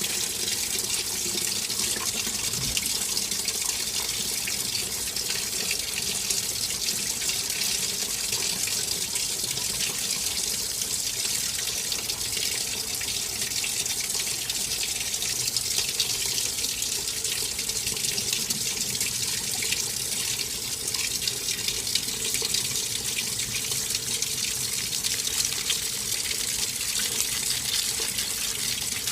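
Water running steadily into the plastic tub of a SANYO ASW-40C1 coin-operated 4 kg washing machine as it fills.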